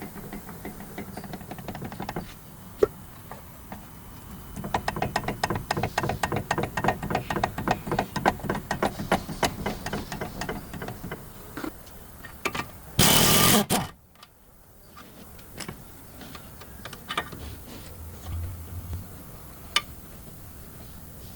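Rapid mechanical clicking, several clicks a second, for about six seconds, then a short loud burst of hiss lasting under a second, followed by a few scattered clicks.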